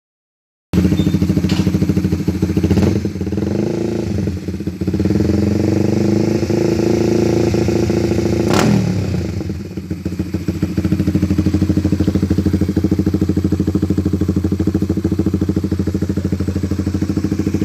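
Honda CBR150R single-cylinder engine running through an aftermarket BRT Juken 5 racing exhaust. It is revved a couple of times about three seconds in and held at higher revs for a few seconds. It then drops back with a sharp crack and settles into an even, pulsing idle.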